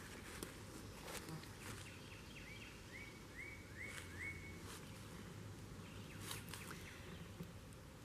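Faint outdoor ambience in a woodland clearing. A bird gives a short rising note about six times in quick succession, starting a second or two in. Soft steps and rustling through grass are also heard.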